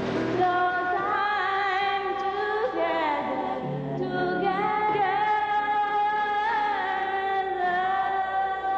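A song with a sustained sung vocal line, long held notes with slight pitch bends, over soft instrumental accompaniment.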